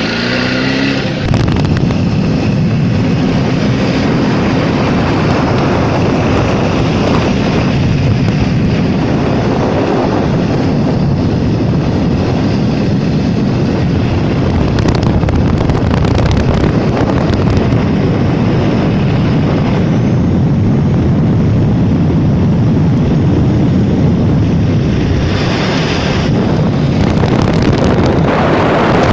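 Jawa motorcycle running steadily at road speed, with wind buffeting the microphone; the engine note climbs in pitch right at the start.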